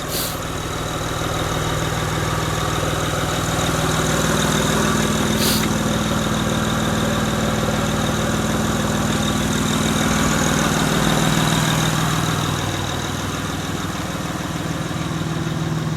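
Honda Accord 3.0-litre V6 idling steadily, a little louder through the middle and easing back near the end. One short click about five and a half seconds in.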